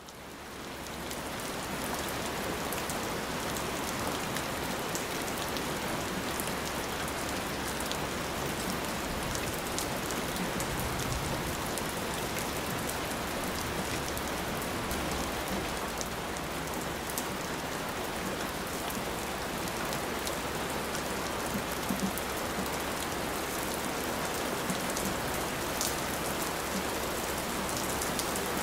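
Steady rain falling, with single drops ticking through the even hiss. It fades in over the first couple of seconds, then holds steady.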